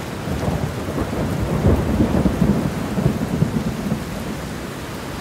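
Steady rain with a low rumble of thunder that swells and then eases.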